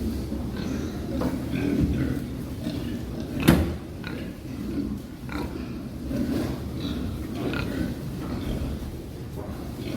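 Pigs grunting and oinking in short scattered calls over a steady low rumble, with one sharp knock about three and a half seconds in.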